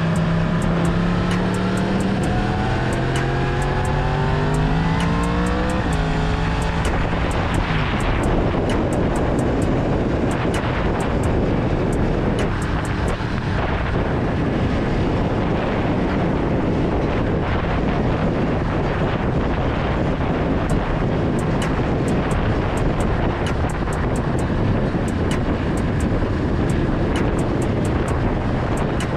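Yamaha MT-10's crossplane inline-four engine accelerating, its pitch rising with a gear change about two seconds in. From about eight seconds in, wind rushing over the helmet-mounted microphone covers most of the engine as the bike cruises.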